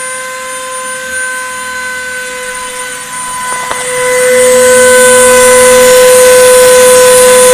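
CNC router spindle running at a steady high whine while milling 5 mm plywood. About four seconds in it gets markedly louder and noisier, typical of the cutter working into the wood.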